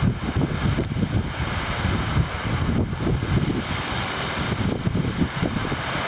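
Heavy rain pouring down in sheets with a steady hiss, while strong gusty wind buffets the microphone with an uneven low rumble.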